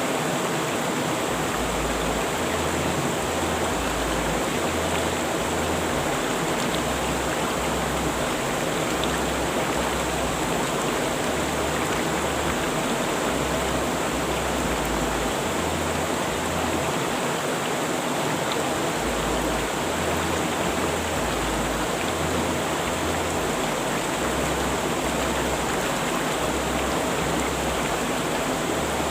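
Steady rushing of river water flowing over rocks, an even unbroken roar of noise.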